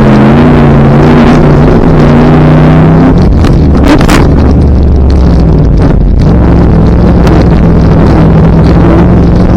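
Off-road truck engine running loud and close, its pitch shifting up and down as the throttle changes, dropping to a lower steady note for a few seconds in the middle, with wind buffeting the microphone.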